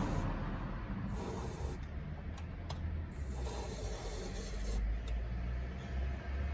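Three bursts of hissing, spray-like sound, the longest lasting about a second and a half, over a low steady rumble, with a few sharp clicks in between.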